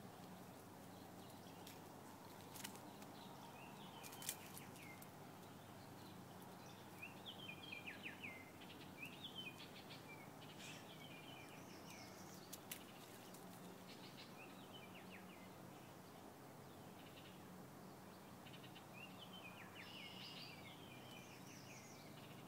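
Faint outdoor ambience with wild birds chirping on and off in short phrases of quick, falling notes. Three brief sharp clicks stand out.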